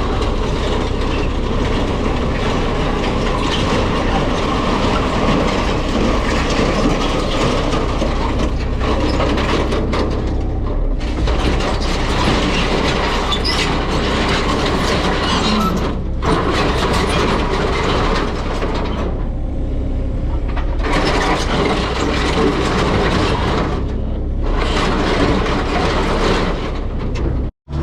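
Machinery running steadily with constant metallic clanking and rattling. The sound is interrupted by a few abrupt cuts and drops out sharply near the end.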